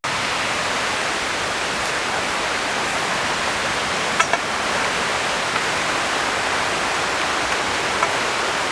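Aruu Falls' waterfall: rushing, splashing water making a steady, even roar, with a couple of faint clicks a little past halfway.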